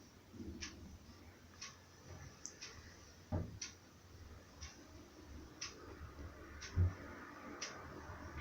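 Venti Delta New Delta Light ceiling fan running with a faint, regular tick about once a second. There are two soft thumps, about a third of the way in and again near the end.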